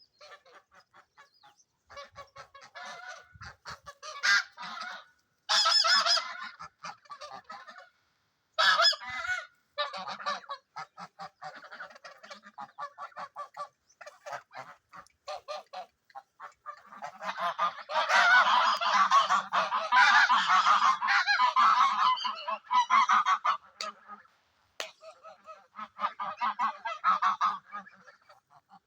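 A flock of domestic geese honking: many short calls in repeated runs, building to a dense, loud chorus around the middle and easing off near the end.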